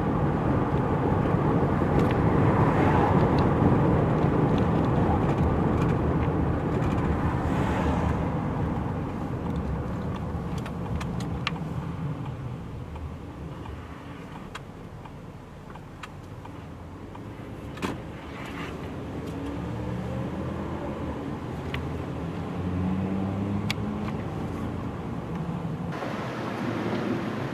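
Street traffic: a car passes, loudest a few seconds in and then fading away, followed by a single sharp click and another vehicle's engine hum building near the end.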